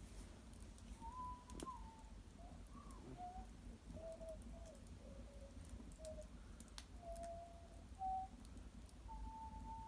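Soft whistled notes wandering down and back up in pitch, ending in one long held note, with scattered sharp crackles from a wood fire burning in an irori hearth.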